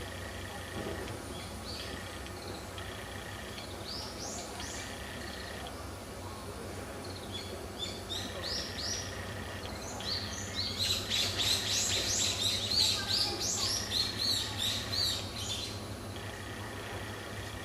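Birds chirping in quick high notes, scattered at first, then a dense run of rapid chirps for about five seconds after the middle, over a steady low hum.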